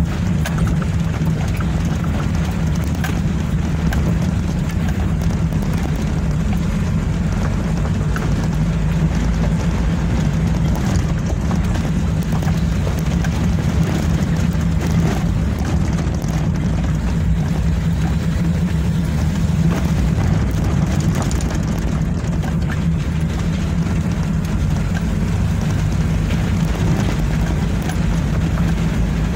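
Car engine running at a steady pitch with road noise over it, the hum of the engine strongest and unchanging throughout.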